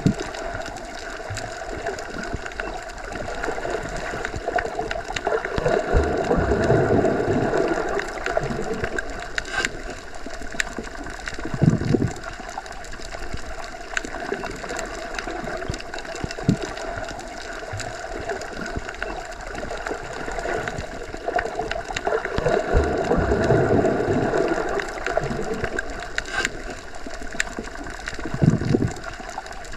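Underwater ambience: a steady muffled rush of water with faint scattered ticks, swelling up slowly twice and broken by two short low thumps.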